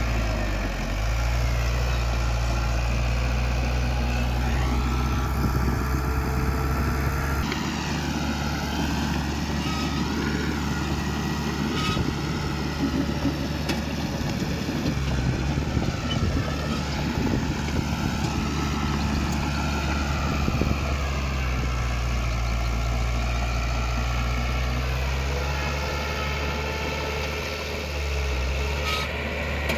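Heavy diesel engine of earthmoving machinery running steadily, its pitch shifting with load a couple of times.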